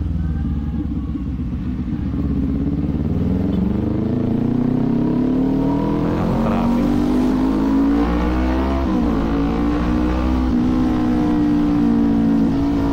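Kawasaki Z400 parallel-twin engine pulling under throttle, its pitch rising steadily for several seconds, dipping briefly at a gear change about nine seconds in, then holding steady at higher revs.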